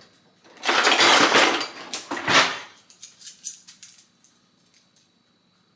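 Kitchen utensils clattering and rattling for about two seconds, then a few light clicks and taps as things are handled.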